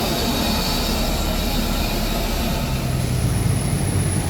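Steady jet aircraft noise, a constant rumble with a low hum that grows a little stronger about three seconds in.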